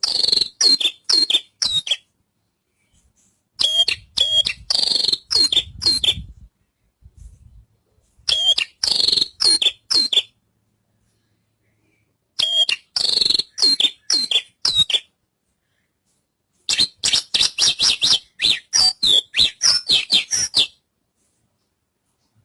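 Javan bushlark (branjangan) singing in five bursts of rapid high chirps and short whistled sweeps, each burst two to four seconds long, with silent gaps between.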